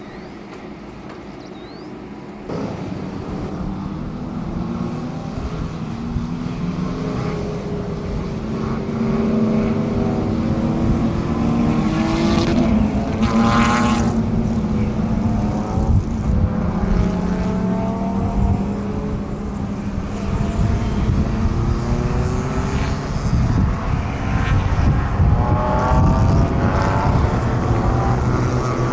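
Several racing touring car engines at full throttle, pitch climbing through the gears and dropping at each change. The sound jumps up about two seconds in, and one car passes close and loud about halfway through.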